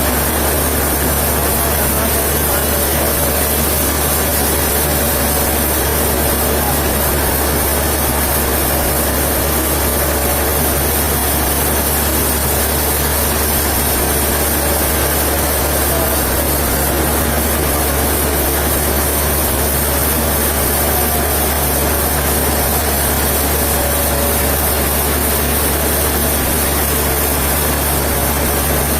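Sawmill machinery running steadily, a constant low engine-like hum with a hiss over it, with no change in pitch or level.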